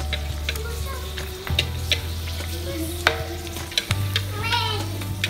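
Fish cracker (kerupuk) sizzling in hot oil in a wok as it puffs up, while a metal spatula stirs it and clicks sharply against the wok now and then.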